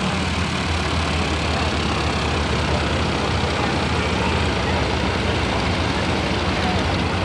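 Several parked propeller trainers, a Yak-52 formation and an SNJ, with their radial engines idling together in a steady, even drone.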